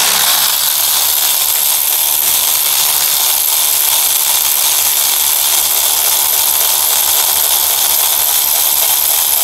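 Cordless power tool running steadily and loudly for several seconds as it backs out a fastener, cutting off near the end.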